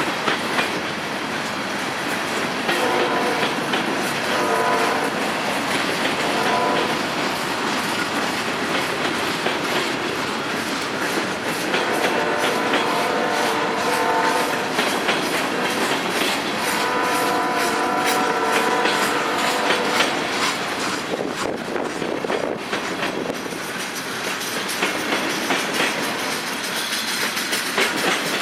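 Freight train passing, its wheels clattering steadily over the rail joints, while the diesel locomotive's multi-tone air horn sounds several blasts: two shorter ones in the first seven seconds, then two longer ones about twelve and seventeen seconds in.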